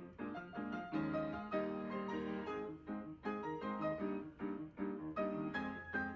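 Background piano music, a run of notes played at a moderate pace.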